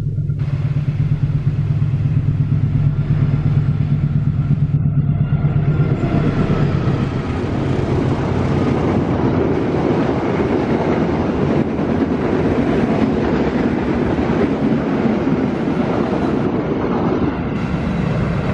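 A diesel-hauled passenger train passing at speed: the locomotive's low, steady engine drone first, then about five seconds in the loud, even rush and rumble of the coaches' wheels on the rails.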